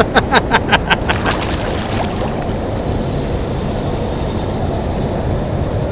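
Steady low rumble of wind and water on a drifting boat, with a quick run of about six clicks in the first second.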